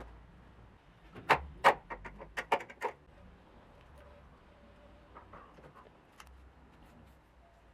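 A quick run of sharp clicks and snaps: two loud ones, then about six lighter ones over the next second, with a few faint ticks later on.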